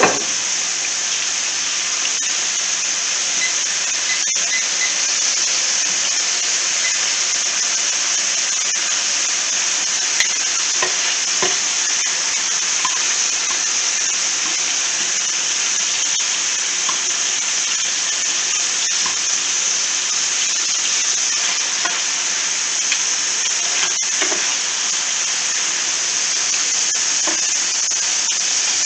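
Chunks of chicken frying in oil in a hot skillet, sizzling steadily, with a few faint clicks of tongs turning the pieces.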